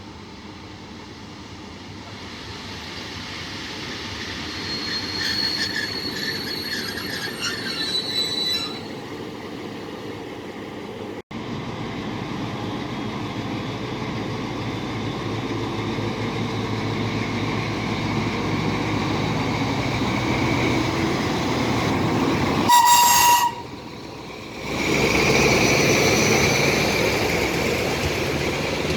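Historic train hauled by FS D345 and D445 diesel locomotives, its running noise building steadily as it approaches. A high wheel squeal lasts a few seconds, starting about five seconds in. Later comes one short, loud horn blast.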